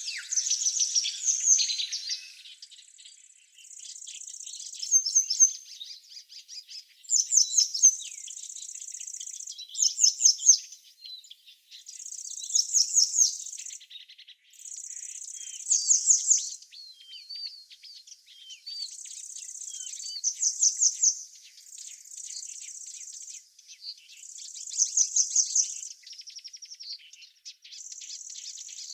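Songbirds singing: a high, buzzy phrase ending in a quick run of notes repeats about every three seconds, with softer chirps from other birds between.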